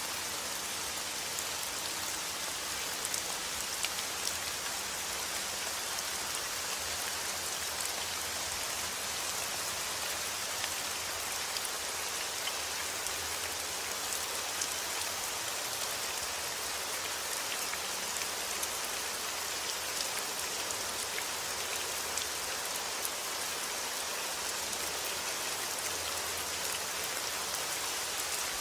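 Steady heavy rain falling outdoors, a constant hiss with many small drop impacts pattering throughout.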